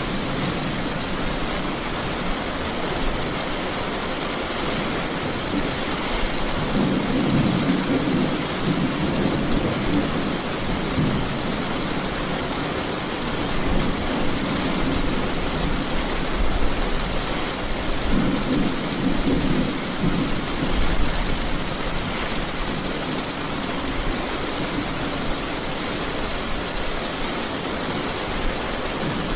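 Steady rain with low thunder rumbling in several rolls, swelling and fading about a third of the way in, around the middle, and again a little later.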